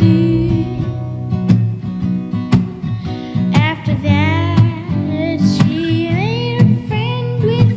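Guitar-led band music with a sharp percussive hit about once a second; a wavering lead line, voice-like, comes in about halfway through.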